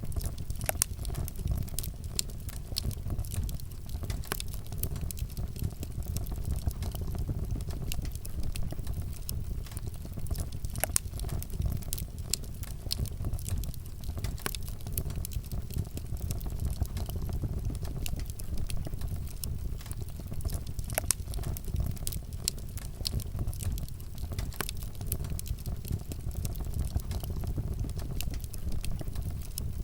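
Wood campfire burning, with frequent irregular crackles and sharp pops over a steady low rumble.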